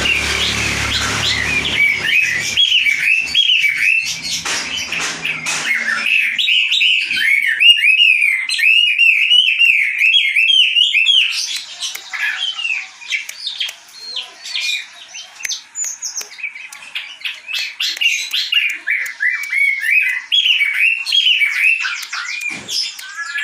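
A wambi bird singing vigorously in fast runs of repeated chirps that swoop up and down in pitch. The song is nearly unbroken for the first ten seconds or so, then comes in shorter, choppier phrases.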